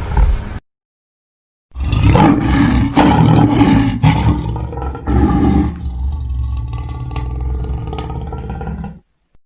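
A dinosaur roar sound effect built from lion roars: one roar ends just after the start, then after a second's silence a long roar sets in, swells again about halfway, and trails off into a quieter low tail before cutting off.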